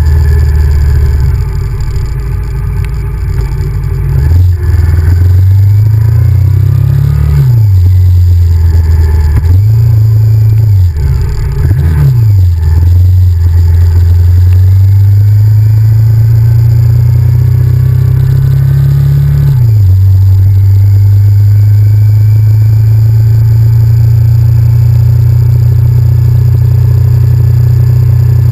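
Honda VTR1000F's 90-degree V-twin engine running under way. The revs climb and then drop sharply several times as it shifts up through the gears, followed by a long, slowly rising pull in the last third.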